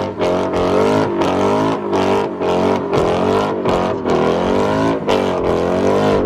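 Car engine revving hard, its pitch rising and falling again and again in quick waves.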